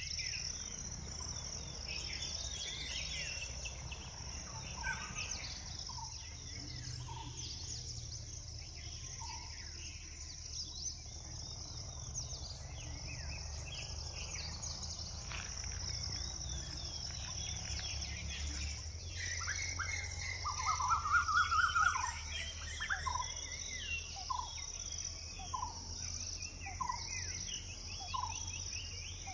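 Dawn chorus: several birds calling and chirping at once over a steady high insect drone. About two-thirds of the way through comes a loud rapid run of rising notes, followed by one short call repeated about once a second.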